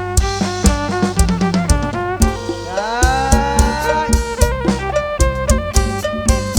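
Live kantruem band music: a steady drum-kit beat with bass under a fiddle melody that slides upward in pitch about three seconds in.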